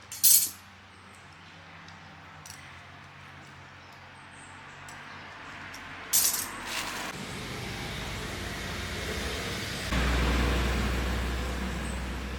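Two sharp metallic clicks, the first right at the start and the second about six seconds in, then a low hum that builds and jumps louder about ten seconds in before slowly easing off.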